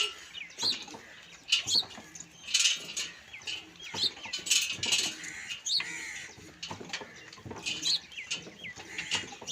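Small birds chirping: many short, high, sweeping calls in quick, irregular succession.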